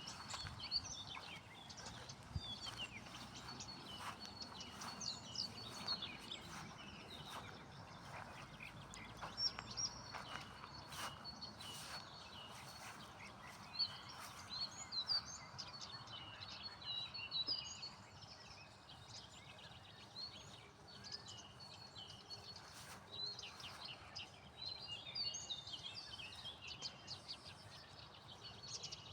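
Several songbirds singing and chirping, short quick phrases overlapping throughout, with a few scattered light clicks.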